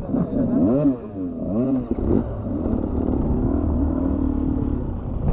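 Dirt bike engine revved in repeated short bursts, the pitch rising and falling several times in quick succession, then held at a steadier, uneven throttle.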